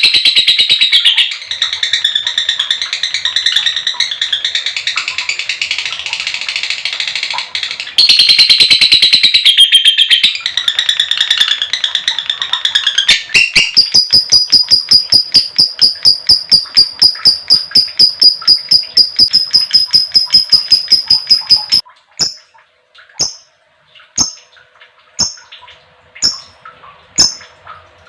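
Female lovebird giving a long, high-pitched, rapid chattering trill (the 'ngekek panjang' call). About halfway through it turns into a fast, even chirp repeated about four times a second. Near the end it slows to single chirps about once a second.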